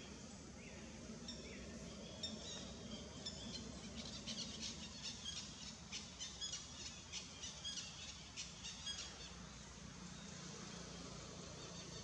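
A bird chirping in a rapid series of short, high notes. The series starts about two seconds in, speeds up through the middle and stops a few seconds before the end, over faint, steady outdoor background noise.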